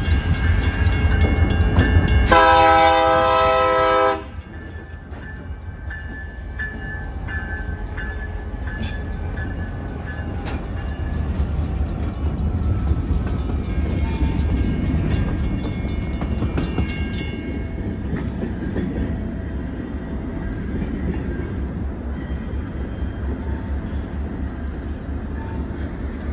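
Diesel locomotive's multi-tone air horn gives one loud blast of about two seconds, starting about two seconds in, over the engine's low rumble. The horn then stops and the locomotive and its covered hopper cars roll past with a steady low rumble and faint wheel clatter.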